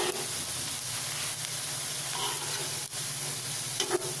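Beetroot cutlets shallow-frying in a thin layer of oil in a flat pan, a steady sizzle: the cutlets are browned and being taken out. A few light clicks of a steel spatula against the pan as they are lifted.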